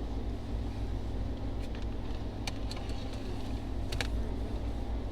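Ford Mustang GT's 5.0 Coyote V8 idling steadily on the dyno after a pull, with a few light clicks over the top.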